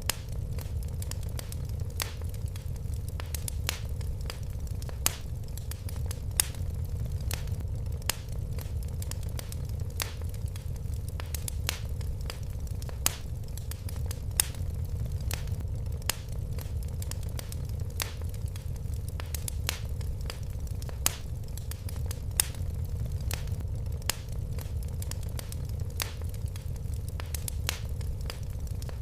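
Wood fire burning in a fireplace, crackling: frequent irregular sharp pops and snaps, a few louder than the rest, over a steady low rumble of the flames.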